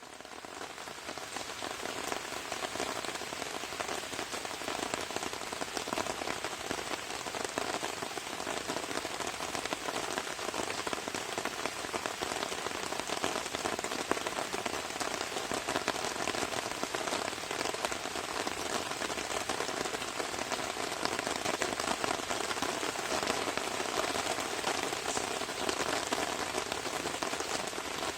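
Rain falling steadily on a camping tarp: a dense, even patter of countless drops. It fades in over the first couple of seconds.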